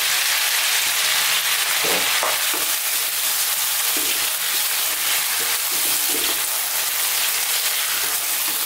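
Beef cubes and garlic-ginger paste sizzling steadily in hot coconut oil in a non-stick wok. From about two seconds in, a wooden spatula stirs through them with soft scrapes.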